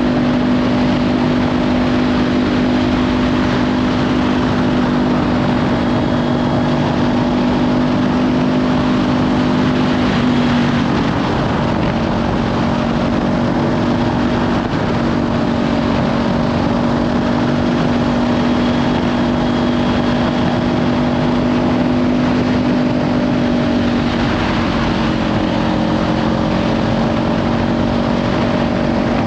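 Kawasaki Ninja 500 parallel-twin engine with a Leovince slip-on exhaust, running at steady cruising revs under heavy wind noise on the microphone. The engine note dips and picks back up about ten seconds in.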